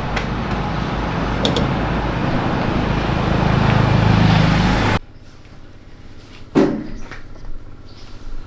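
A steady engine-like rumble with broad noise swells louder and cuts off abruptly about five seconds in. A quieter stretch follows, with one sharp knock and a few light clicks.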